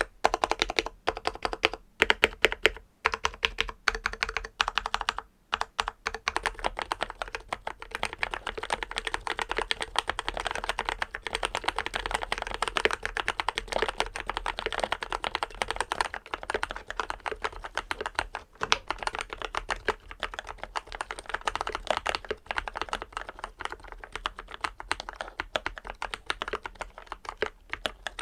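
Typing on a Keychron K8 Retro aluminum mechanical keyboard fitted with brown tactile switches that have been lubed and sound-dampened. For about the first six seconds the keystrokes come separately with short gaps, then they run into continuous fast typing.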